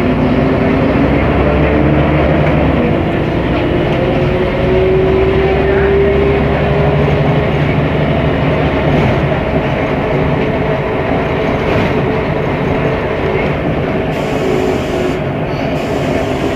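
Mercedes-Benz O500MA articulated bus under way, heard from inside: the diesel engine and drivetrain run with a whine that rises over the first few seconds as the bus gathers speed, then holds steady over road noise.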